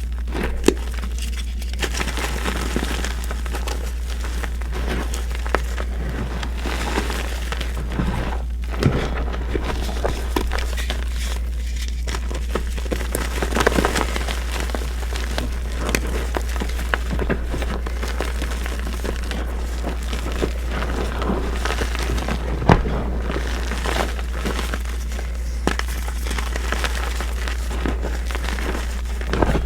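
Reformed gym chalk being crumbled and crushed: a continuous run of small gritty crunches and crackles, with a few sharper cracks, the loudest about two-thirds of the way through. A steady low hum runs underneath.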